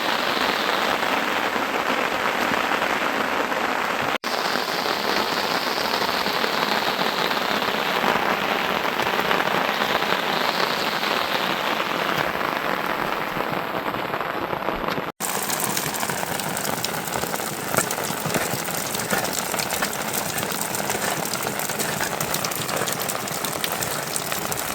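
Steady rain falling: a continuous hiss of rain on surfaces. It drops out for an instant twice, and after the second break, about 15 seconds in, it sounds brighter, with many individual drop ticks.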